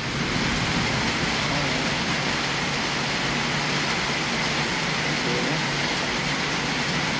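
Heavy thunderstorm downpour: dense rain falling steadily as an even, unbroken rush.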